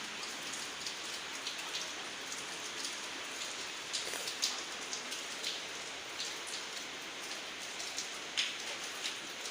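A steady hiss with scattered light ticks and taps.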